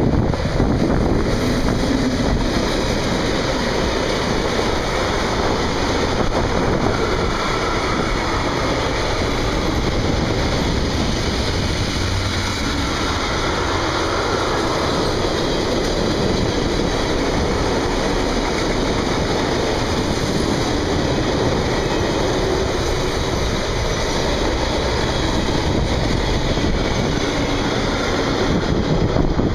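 Electric freight train of tank wagons passing close by: the steady noise of wagon wheels running over the rails, with wind on the microphone.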